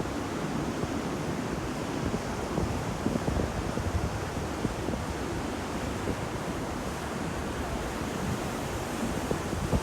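Ocean surf: waves breaking and washing in a steady rush, a little louder and crackling a few seconds in.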